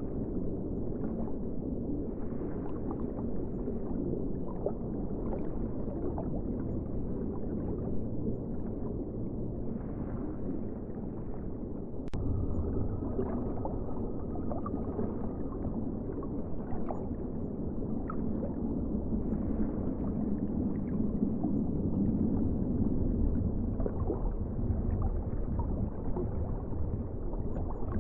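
Muffled, low ocean water sound, a continuous deep wash with small bubbling ticks through it. About twelve seconds in there is a sharp click, and afterwards the water sound is a little louder.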